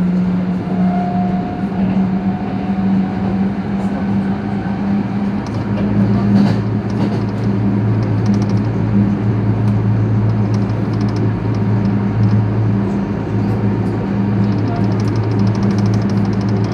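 Running noise inside a metro train car on an elevated line: steady rumble of the wheels on the track with a low motor hum, and a second, deeper hum joining about five and a half seconds in.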